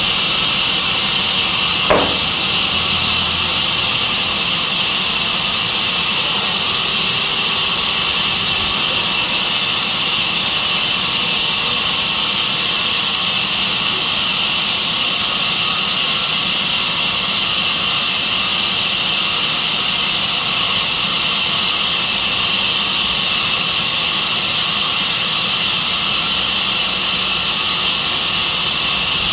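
Sawmill saw machine running steadily, a loud, even hiss-like noise, with one sharp click about two seconds in.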